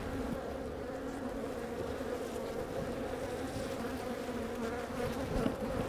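Honey bees from an open, crowded hive buzzing around the microphone in a steady, even hum.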